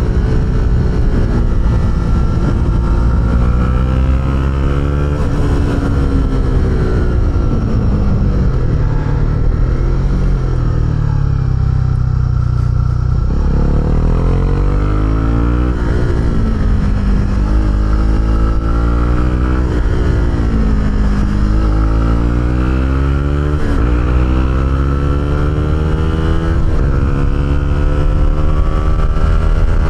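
Honda CB125R's single-cylinder 125 cc four-stroke engine running through an Arrow aftermarket exhaust while riding, its pitch rising and falling again and again as the throttle opens and closes through the gears, with a sharp climb in revs about halfway through.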